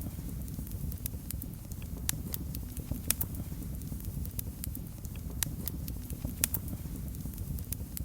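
Wood fire in a fireplace crackling, with a steady low rumble of the flames and irregular sharp pops and snaps, a few of them louder.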